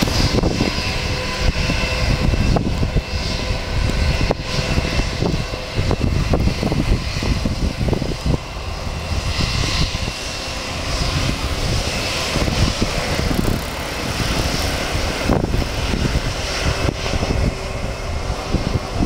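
Airbus A321 airliner's jet engines running, a loud, continuous low rumble with a few faint steady whining tones above it.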